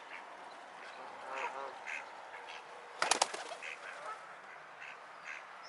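Ducks and geese calling, with repeated quacks and honks. A short cluster of sharp knocks about three seconds in is the loudest sound.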